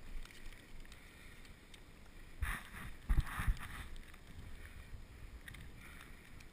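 Wind buffeting the microphone of a head-mounted GoPro on a bicycle ride, with a steady low rumble. A few heavy thumps come about two and a half to three and a half seconds in.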